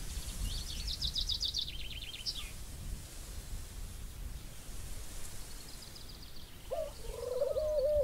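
Forest birds calling: a high, fast trill that steps down in pitch over about two seconds, a fainter high trill midway, then a lower, wavering call near the end, over a steady low background hum of the forest.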